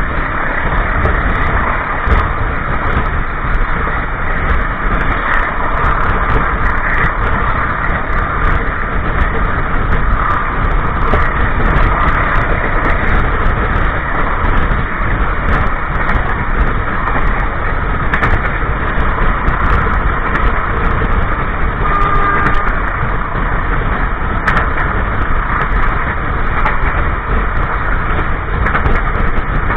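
Steady loud rumble and rattle of a moving passenger train's wheels and running gear on the rails, heard from inside a coach's toilet, with occasional clicks from the track.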